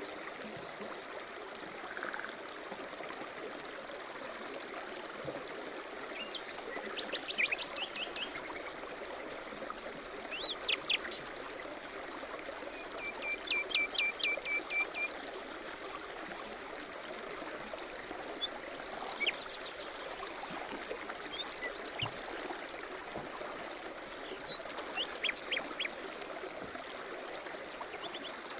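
Songbirds calling and trilling at intervals over the steady rush of a stream.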